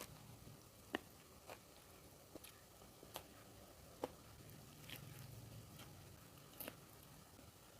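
Near silence with about eight faint, sharp clicks at irregular intervals.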